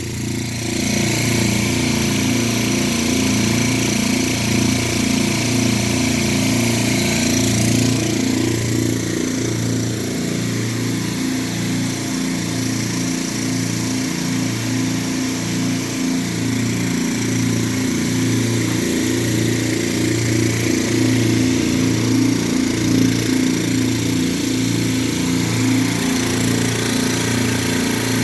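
Air Star 50 dental air compressor running with both motors, pumping up the air tank as the pressure rises. A steady hum with a regular slow pulsing.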